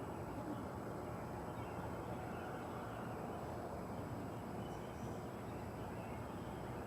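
A steady, low roar from an unidentified source, holding even throughout.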